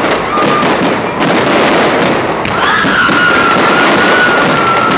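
Fireworks going off in a dense, continuous barrage of bangs and crackling, with a long high whistle starting about halfway through.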